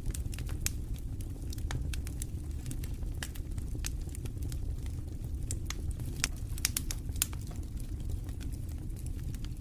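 Campfire burning, wood crackling with irregular sharp pops, a few louder ones past the middle, over a steady low wind rumble.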